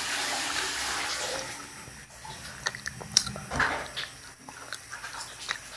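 Water running from a tap, fading out about a second and a half in, followed by scattered light clicks and knocks.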